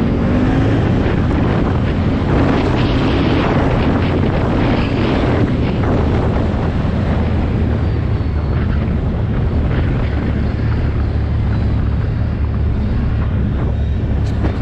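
ATV engine running steadily under way, with wind noise on the microphone.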